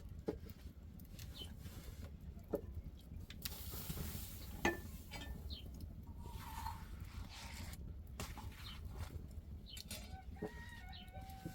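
Chickens clucking, with a few sharp knocks scattered through and short pitched calls near the end, over a low steady rumble.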